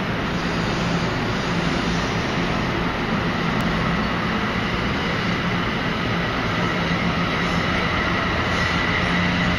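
NJ Transit electric commuter train rolling past the platform: a steady rumble of wheels on rail, with a faint high whine that grows louder toward the end.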